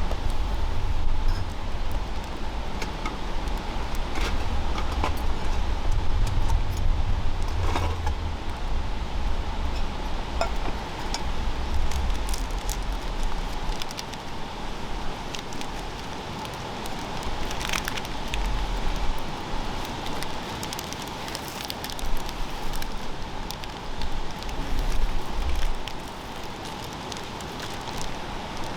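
Wood campfire crackling, with irregular pops and snaps over a steady hiss. A low rumble sits under it through roughly the first half.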